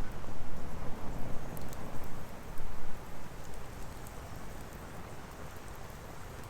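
Firewood burning in an open fire pit: an uneven low rush of flames with scattered small crackles, louder in the first half.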